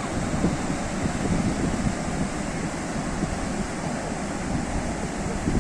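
Sea waves breaking and washing ashore: a steady rush of surf with small irregular swells.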